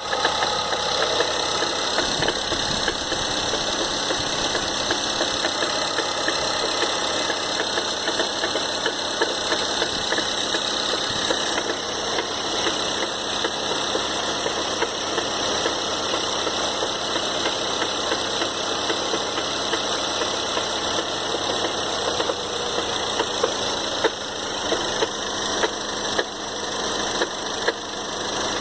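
2013 Ford Fusion's 2.0L EcoBoost turbocharged four-cylinder engine idling with a knocking noise under its steady running. Over the last several seconds sharper, louder knocks stand out about once or twice a second.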